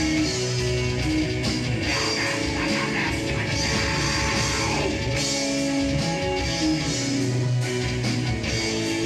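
Rock band playing live: electric guitars and bass holding notes over a drum kit, at a steady loud level.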